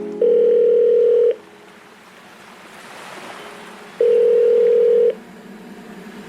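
Telephone ringing tone: two long, steady beeps about three seconds apart, with a soft hiss between them.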